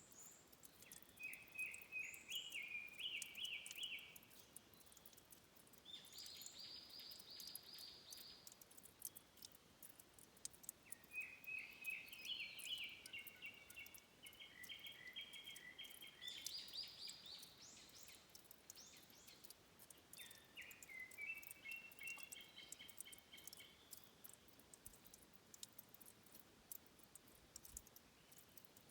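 A songbird singing faint phrases of quick repeated trilled notes, four bursts of song with pauses between them, over a soft hiss scattered with tiny high clicks.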